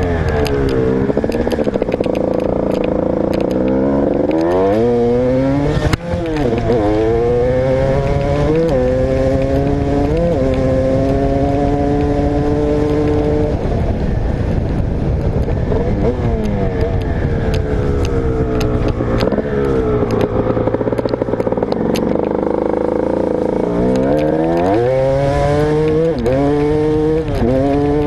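Motocross bike engine under hard riding. The revs climb in several quick steps as it shifts up, hold steady, drop off, then climb again near the end, with a brief cut about six seconds in.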